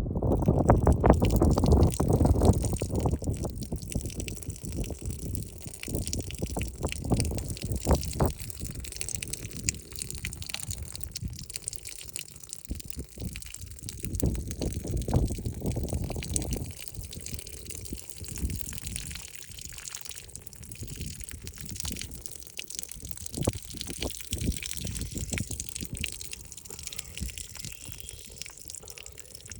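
A woman urinating: a steady hissing stream spattering on the ground. Wind gusts rumble on the microphone, heaviest in the first few seconds and again about halfway through.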